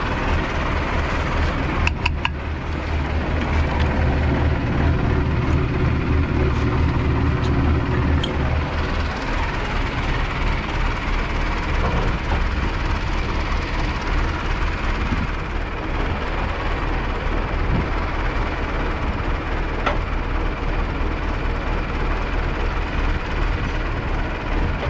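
Farm machinery engine running steadily, with a deep hum that drops away about eight seconds in; a few clicks about two seconds in.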